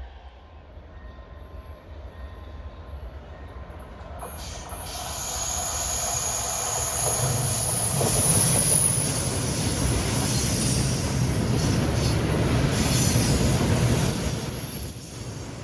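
A train passing close by on the rails, its wheels giving a high, steady squeal over the rumble. It grows loud about four seconds in and eases near the end.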